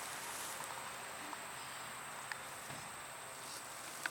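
An insect's steady high-pitched trill, starting under a second in, over faint outdoor background noise.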